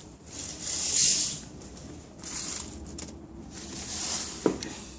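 Soft rustling handling noise in several swells, with one sharp click about four and a half seconds in.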